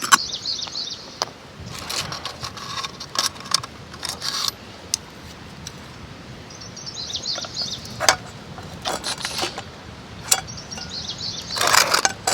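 Small birds chirping in short bursts three times, over scattered sharp clicks and knocks.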